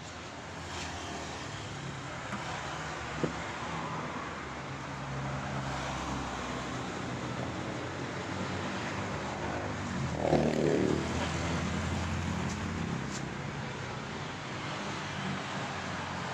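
Road traffic running steadily, with a vehicle passing about ten seconds in, its pitch falling as it goes by, and a single sharp click about three seconds in.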